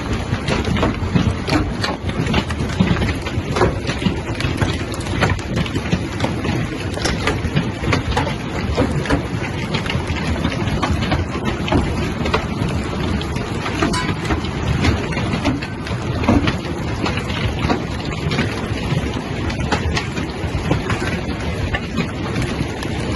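Heavy hail pelting down: a dense, steady clatter of countless small impacts over a deep rushing noise.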